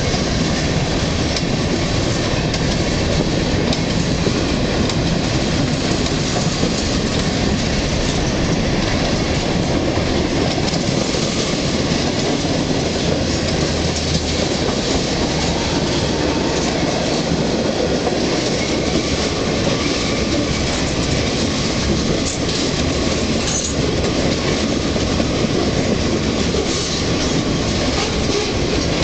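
CSX freight train rolling past: a steady, loud rumble of steel wheels on rail.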